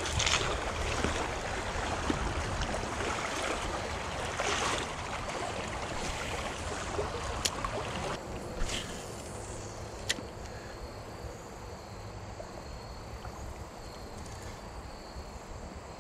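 Shallow creek water running and sloshing, with a few sharp clicks about halfway through.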